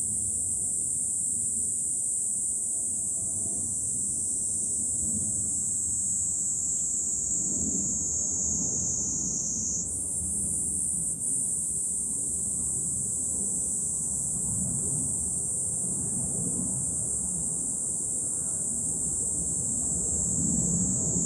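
A chorus of cicadas buzzing steadily and high, the tone shifting slightly about halfway through, over a low, fluctuating rumble of wind.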